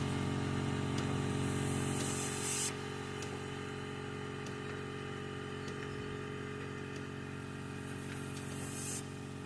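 Compressed air hissing into an old car tire from an air chuck. It stops abruptly about two and a half seconds in and starts again near the end, over a steady motor hum.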